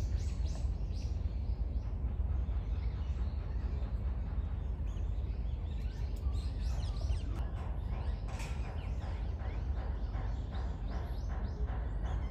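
Small birds chirping in quick repeated notes, more densely in the second half, over a steady low outdoor rumble.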